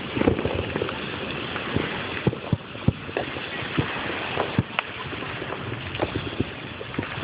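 Fireworks going off, irregular sharp pops and cracks scattered through a steady background hiss.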